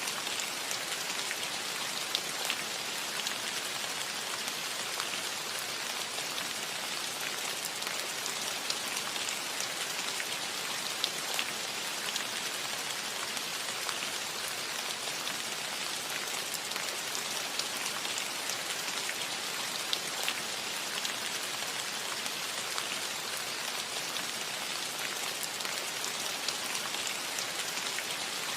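Steady rain falling on a metal roof: an even patter with many small, sharp drop ticks scattered through it.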